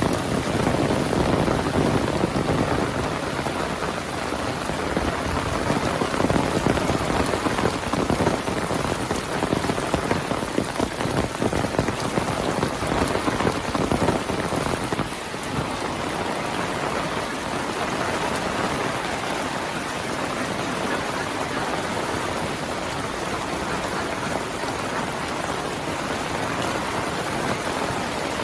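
Heavy monsoon rain falling steadily. For about the first half it is a dense close patter of drops; about halfway through it settles into a smoother, even hiss.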